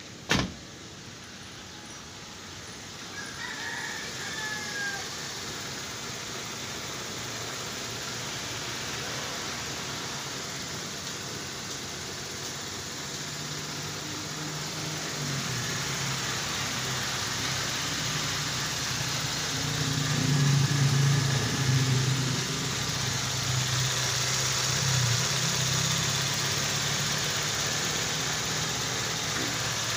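Toyota Corolla engine idling while it warms up, with a low hum that grows louder from about a quarter of the way in. A sharp click comes right at the start.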